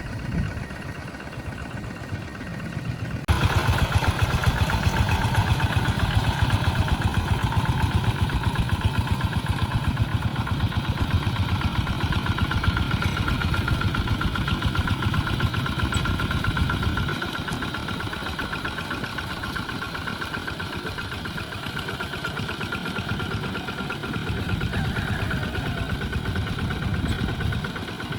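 Tractor engine running with a steady, fast chugging. It turns abruptly louder about three seconds in and eases off somewhat in the second half.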